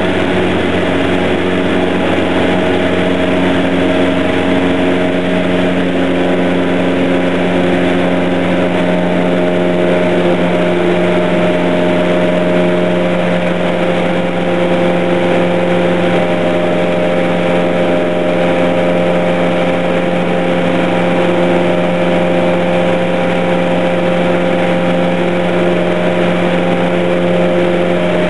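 Light aircraft's piston engine and propeller droning steadily in cruise, a constant loud hum with steady tones and no change in power.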